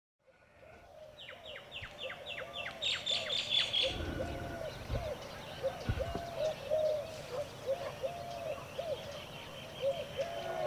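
Birds calling, fading in from silence: one bird repeats a short, low, arched call about twice a second, while another gives a quick run of high falling chirps during the first few seconds.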